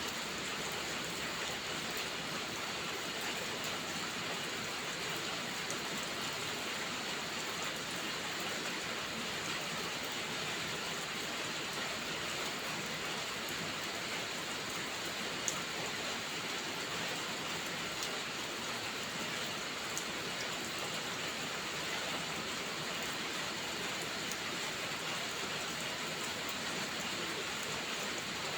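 Steady rainfall, an even hiss of rain, with a few sharp ticks of drops here and there.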